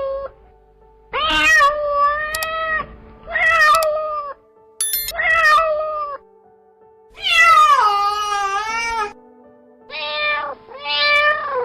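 Domestic cat meowing repeatedly: a series of separate meows with short pauses between, the longest about seven seconds in.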